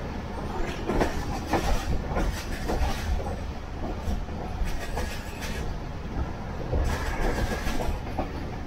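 Passenger train running at speed, heard from inside a carriage: a steady rumble with clickety-clack of the wheels over the rail joints, coming at uneven intervals.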